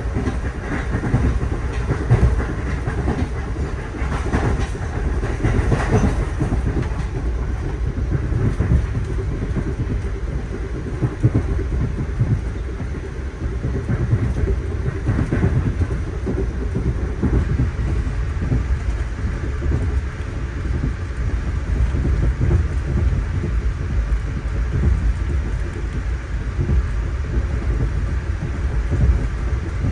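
Amtrak Amfleet I passenger coach running along the line: a steady low rumble of wheels on rail with frequent small clicks and knocks, busiest in the first few seconds.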